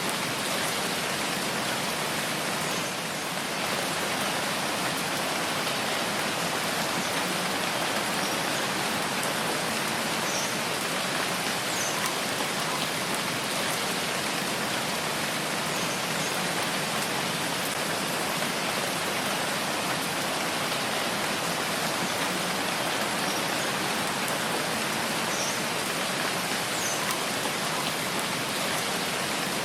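Steady rainfall: a dense, even hiss of rain, with a few sharper drips standing out now and then.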